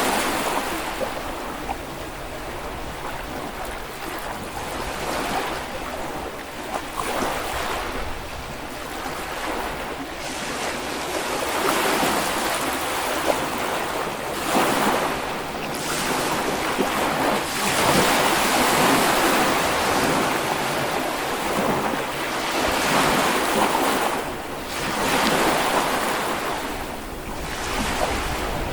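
Small Baltic Sea waves washing onto a beach, the surf swelling and fading every few seconds, with some wind on the microphone.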